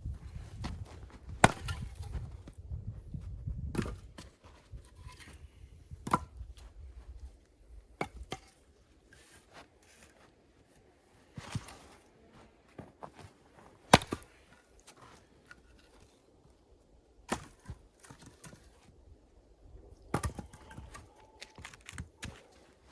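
Sharp blows on wood, spaced irregularly a few seconds apart, with small knocks and handling clicks between them. The loudest strikes come about a second and a half in and about midway through.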